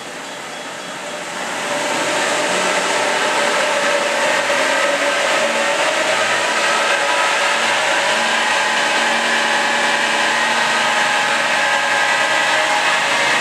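Holden VZ Commodore's LS1 5.7-litre V8 on its stock exhaust, run hard under load on a chassis dyno for a baseline power run; it gets loud about two seconds in and stays loud, with the engine note slowly rising.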